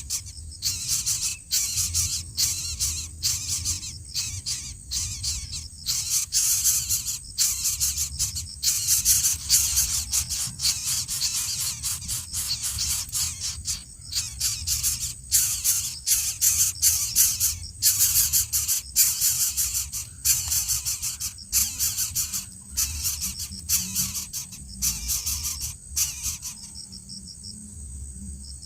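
Insects, such as crickets or cicadas, trilling in a dense high-pitched chorus broken by many brief gaps, over a low rumble. About 27 seconds in the chorus changes to a steadier, thinner high whine with a faint regular pulse.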